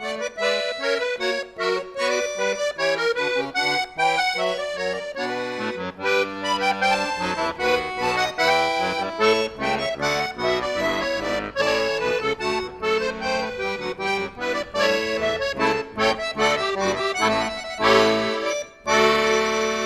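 Accordion playing a quick melody of short, separate notes; near the end it stops briefly, then a long chord is held.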